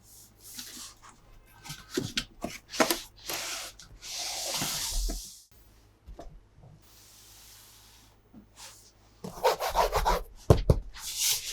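Toy packaging being handled and opened: irregular rubbing, scraping and crinkling, with a longer scraping sweep near the middle and a dense crackling patch near the end.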